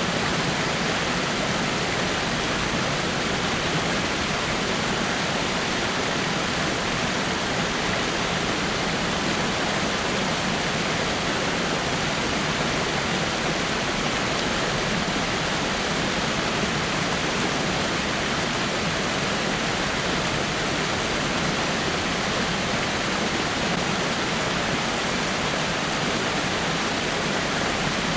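Water falling over rocks in a waterfall: a steady, even rush with no change or break.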